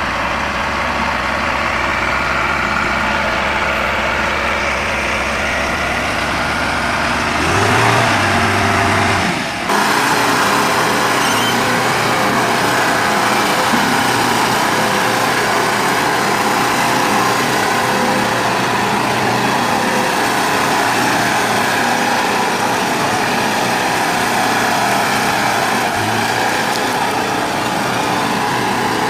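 Heavy excavator engine running steadily, with an abrupt change in the sound about ten seconds in.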